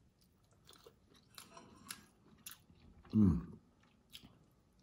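Close-up chewing and wet mouth sounds of a person eating sauce-coated shrimp, with scattered small clicks and smacks. About three seconds in comes a brief hummed vocal sound that falls in pitch.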